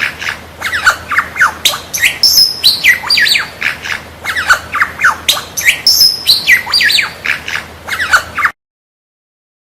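Lyrebird calling: a fast, loud run of falling whistles and sharp clicking notes, repeating much the same phrase about three times. It cuts off abruptly near the end.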